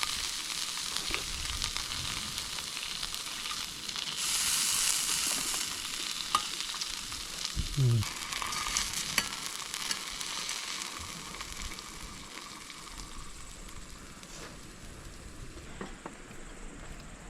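Food sizzling in a hot frying pan, a steady high hiss dotted with small pops and clicks. It swells louder for a second or so about four seconds in, then slowly dies down.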